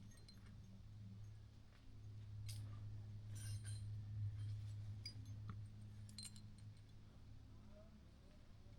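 Near-quiet outdoor background: a steady low hum that swells in the middle, with a few faint light clicks and clinks scattered through it.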